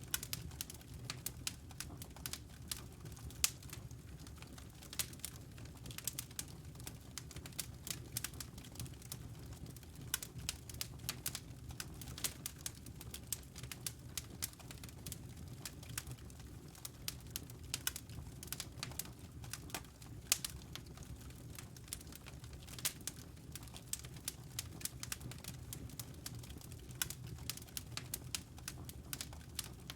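Wood logs burning in a fireplace: frequent, irregular crackling clicks over a steady low rush of the flames.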